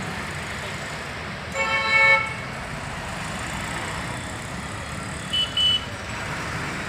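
Steady road traffic rumble, with a vehicle horn sounding once for about half a second a little after 1.5 s in, then two short high-pitched beeps about five and a half seconds in.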